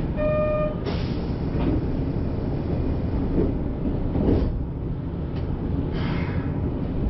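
A short electronic beep, about half a second long at the start, then the steady running noise of a Kyoto Municipal Subway Karasuma Line train.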